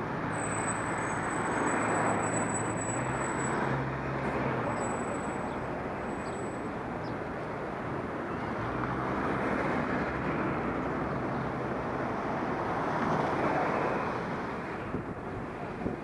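Busy street traffic heard from a moving bicycle: motor vehicles run past, their noise swelling and fading a few times, with a low engine hum. A thin high whine sounds for the first few seconds.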